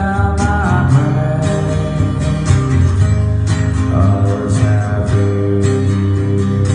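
Acoustic guitar strummed in an unplugged song, held chords with steady strums.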